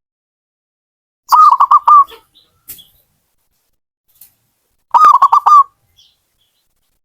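Zebra dove (perkutut) cooing: two quick phrases of about four short, bubbling coos each, one a little over a second in and one about five seconds in, with silence between.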